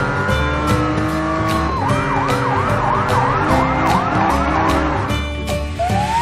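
Siren sound effect over background music with a steady beat. A slow wail tails off about two seconds in and switches to a fast warbling yelp of about three pitch swings a second, then a new wail rises near the end.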